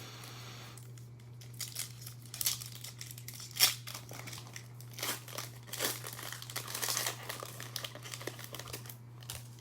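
Foil wrapper of a Panini Revolution basketball card pack being torn open and crinkled, an irregular run of crackles with one sharp snap partway through.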